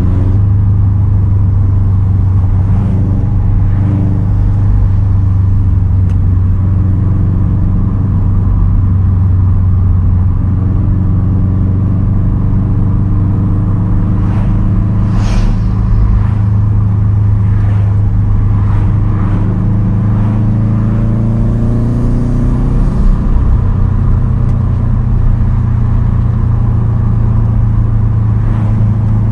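A 2010 Subaru WRX STI's turbocharged 2.5-litre flat-four running through a Tomei Expreme Ti single straight-pipe exhaust at a steady cruise. The revs climb for a few seconds past the middle, then drop back.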